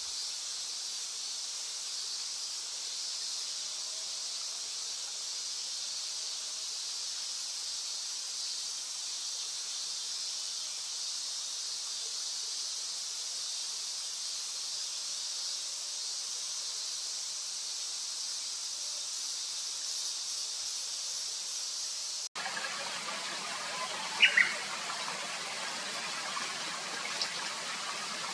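A steady high-pitched chorus of summer insects. After an abrupt cut to a different outdoor ambience, a bird gives a short, sharp call twice in quick succession.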